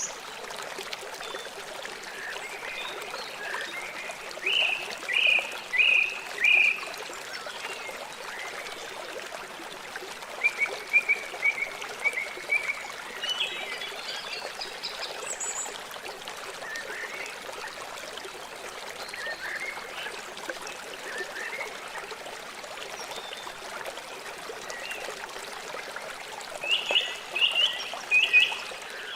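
River water flowing steadily, with birds calling over it: short calls repeated in quick runs of four or five, about five seconds in, around eleven seconds in and near the end, and fainter scattered chirps between.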